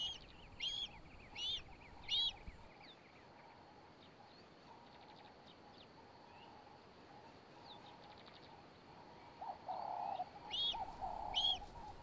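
A bird chirping: short, high, arching chirps about every 0.7 s, four at the start and another run near the end, with a lower wavering sound joining in near the end.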